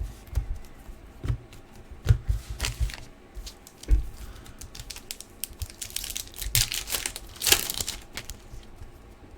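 Hockey card packs being opened and handled: wrappers crinkling and tearing, with cards clicking and sliding against each other in irregular bursts. The loudest tearing rustle comes about seven and a half seconds in.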